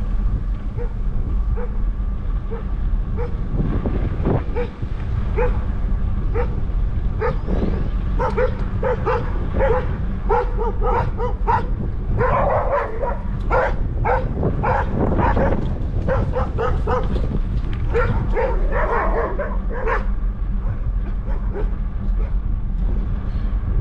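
A dog barking over and over in quick series of barks, heaviest in the middle and dying away near the end, over a steady low rumble.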